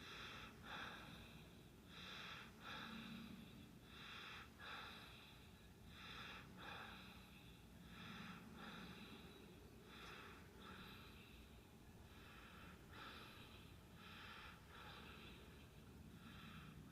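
Faint breathing close to the phone's microphone, in-and-out breaths coming in pairs about every two seconds.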